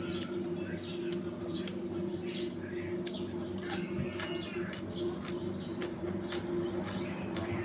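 Small birds chirping over and over, in short sharp calls, over a steady low hum.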